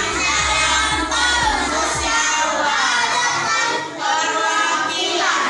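A class of young children singing a song together over backing music with a beat. The beat stops about two seconds in while the singing carries on.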